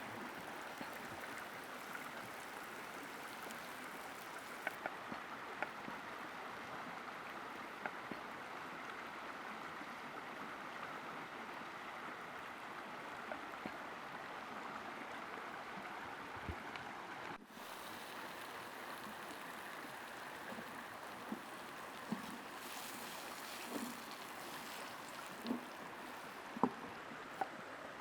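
Food cooking over a wood campfire: a steady sizzling hiss with scattered small crackles, and a few soft pops and bubbling blips in the later part.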